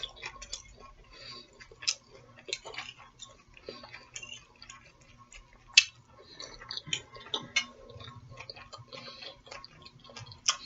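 A person chewing fish close to the microphone: soft, irregular mouth clicks and smacks, with a few sharper clicks, the sharpest a little past the middle.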